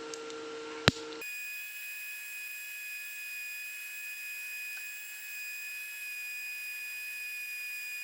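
Small high-speed rotary tool running with a steady high whine. There is a sharp click just under a second in, and a moment later the whine changes abruptly to a higher, cleaner pitch and holds steady.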